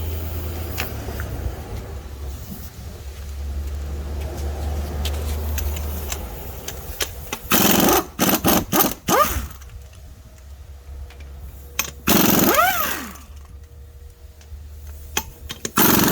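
An impact gun running lug nuts in short bursts: a quick cluster of rattling bursts, then two single bursts a few seconds apart, the motor's whine sliding down in pitch as it stops. A low steady hum is under the first few seconds.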